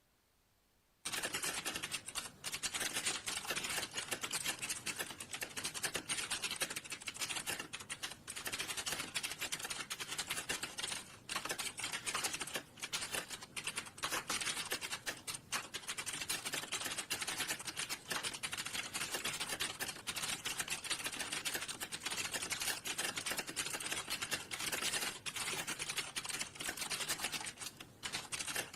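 Fast, continuous typing on a computer keyboard: a dense run of key clicks that starts about a second in and goes on with only a few brief pauses.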